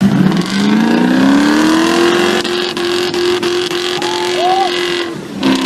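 Land Rover Discovery 2's 4.6-litre Rover V8, fitted with an aftermarket performance cam and headers, running loud. The revs climb over about two seconds, hold steady, then fall away about five seconds in.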